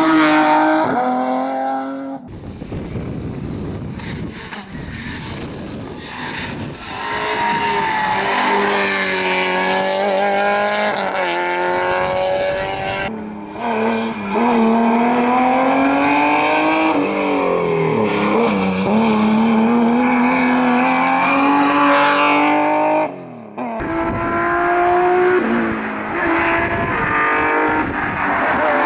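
Rally cars at full attack on a timed stage, engines revving hard with pitch rising and dropping through gear changes, and tyres squealing in the corners. Several separate passes are cut together, with sudden changes about two, thirteen and twenty-four seconds in.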